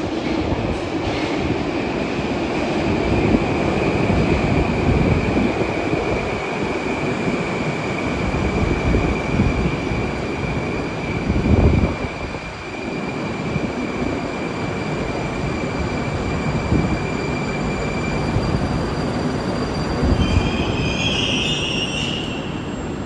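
A Moscow metro train of the Moskva type (81-765) running at the station platform. There is a continuous rumble with a steady high whine, then a higher squeal of wheels on rail near the end.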